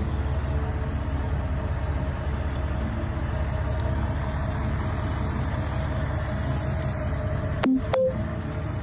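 A classic car's engine idling with a steady low rumble. There is a short click and blip about eight seconds in.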